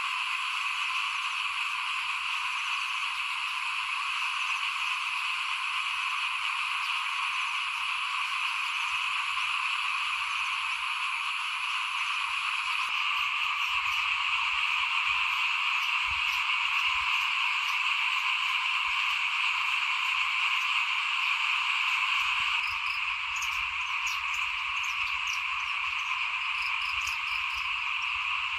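Dense chorus of many small paddy frogs calling at once, merging into a steady, continuous din.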